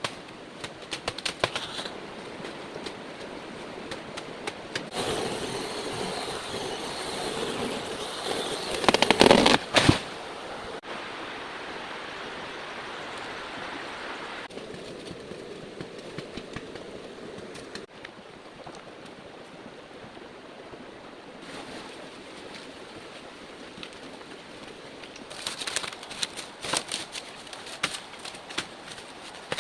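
Steady rain hiss, louder and rushing for a few seconds about a third of the way in, with scattered sharp clicks and knocks near the start and again near the end.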